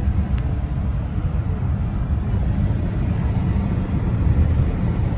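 A 2007 Chevy Silverado pickup driving along, heard from inside the cab: a steady low engine and road rumble with no breaks, and one faint click about half a second in.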